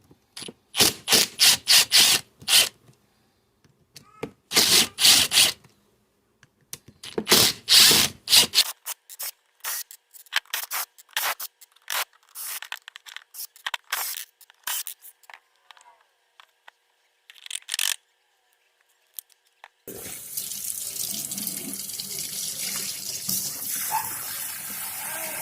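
A series of short noisy bursts and clicks in irregular groups, then water starts running with a steady rushing sound about 20 seconds in.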